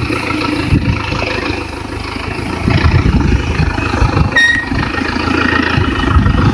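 Motor vehicle engine running with uneven rumbling, louder from a little under three seconds in, with a short high beep about four and a half seconds in.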